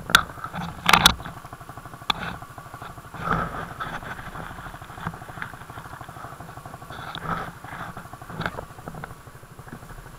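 Motorcycle engine running with a steady, even pulse. A few sharp clicks come in the first couple of seconds, with smaller knocks later.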